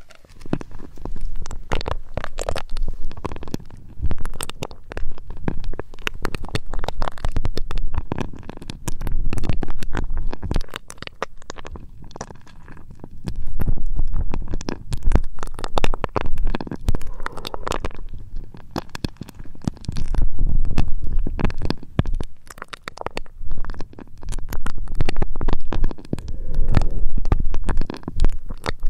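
Crackly scratching and rubbing right against the ears of a 3Dio binaural microphone, with a heavy low rumble, swelling and easing every few seconds.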